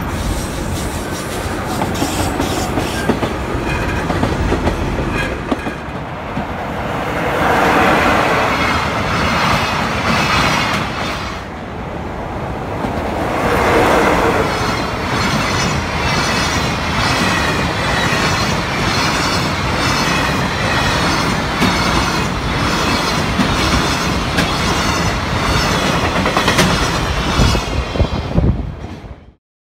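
Freight train hauled by an EF66 electric locomotive passing, wheels clattering steadily over the rail joints. The sound cuts off suddenly near the end.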